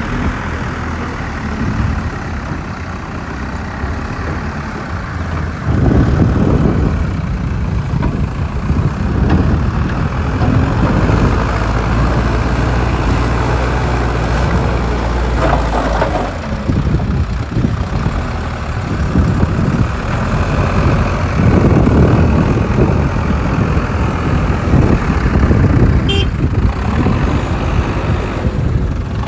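Heavy diesel engine of a JCB digger running. It revs up about six seconds in, then rises and falls as it works.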